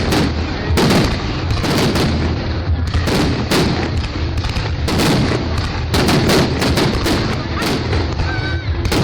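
Fireworks display: aerial shells bursting in a rapid run of loud bangs, one every half second to a second, over a continuous rumble and crackle.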